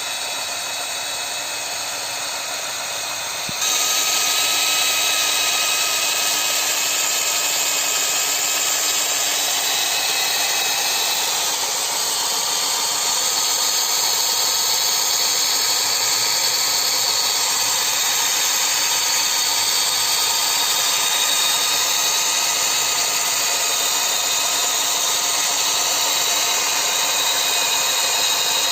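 Small electric motors of a homemade miniature Kubota DC-93 combine harvester running steadily as it cuts rice, with a whine that gets louder about three and a half seconds in.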